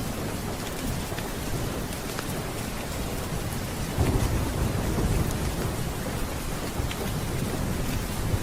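Steady rain, with a roll of thunder rumbling up about four seconds in and dying away over a second or two.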